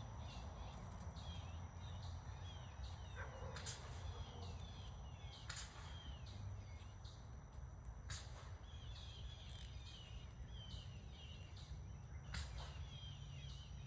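Faint birdsong: many short chirps and warbles repeating throughout, over a low rumble and a steady high-pitched tone. Four sharp clicks stand out, about three and a half, five and a half, eight and twelve and a half seconds in.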